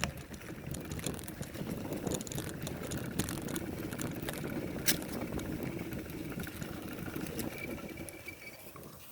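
Bicycle rolling along a dirt trail: steady tyre and rolling noise with scattered rattles and clicks, one sharper click about five seconds in.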